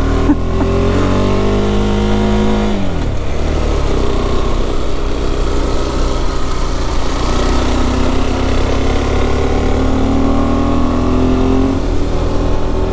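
KTM 390 Adventure's single-cylinder engine pulling up a steep road. Its pitch drops sharply about three seconds in, then climbs steadily through the second half, over a steady rushing noise.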